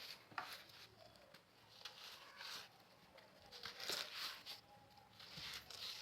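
Compacted salt being crushed, giving irregular soft crunches and crackles, with the loudest run of crunching about four seconds in.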